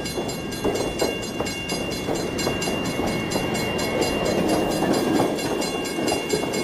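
A train running on track: a steady rumble with a rapid, regular clickety-clack of wheels, about four or five clicks a second, and a faint steady whine.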